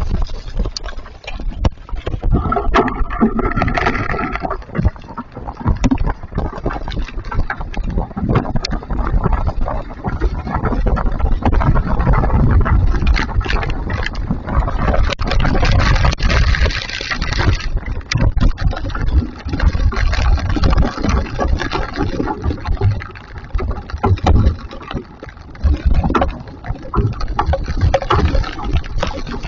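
Hail with rain coming down hard, a dense, continuous clatter of hailstones striking, over a heavy low rumble.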